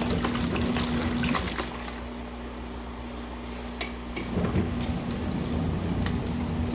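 Twin-tub washing machine's wash motor humming as it churns water in the tub. It stops about a second and a half in and starts again about three seconds later, the agitator pausing between direction changes.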